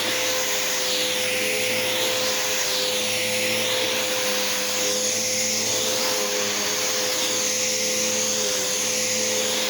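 Bissell PowerForce 71Y7-V bagged upright vacuum cleaner running on carpet: a steady motor whine under a loud rushing hiss that swells and fades every second or two.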